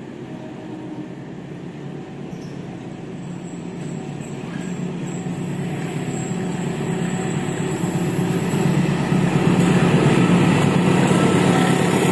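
CC203 diesel-electric locomotive (GE U20C) hauling a passenger train at speed, its engine and rolling noise growing steadily louder as it approaches, loudest over the last few seconds as the locomotive and the first carriages pass close by.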